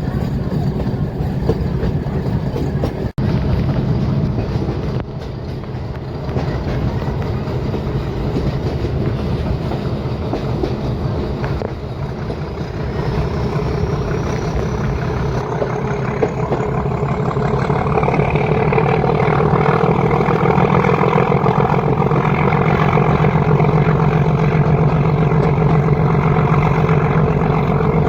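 Metre-gauge train hauled by a YDM-4 diesel locomotive running along the track, a steady rumble with wheels clattering over the rails, growing louder about two-thirds of the way through.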